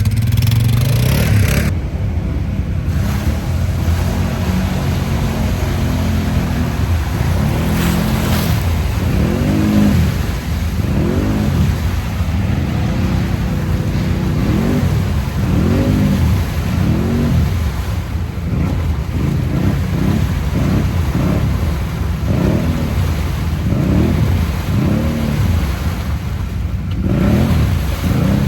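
ATV engine revving hard and repeatedly while pushing through a mud hole, its pitch rising and falling about once a second.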